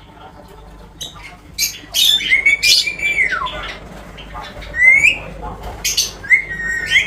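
Indian ringneck parrot squawking: a run of short, harsh calls, several of them sliding in pitch. One longer call about a third of the way in drops in pitch at its end, and the last call near the end rises.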